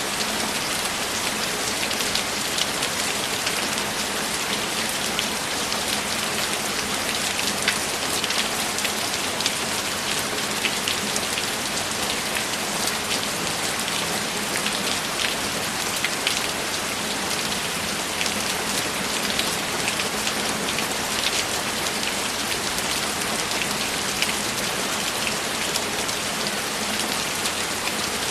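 Steady, even rainfall, with countless small drop impacts ticking over a constant hiss.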